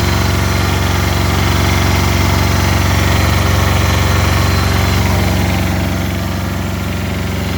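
Genie cherry picker's two-cylinder diesel engine running steadily on a cold start, with an even pulsing beat; it drops a little in level about five and a half seconds in.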